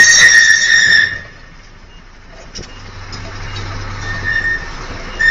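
A loud, high-pitched steady squeal for about a second, then a quieter stretch with a low hum, and the squeal starts again near the end.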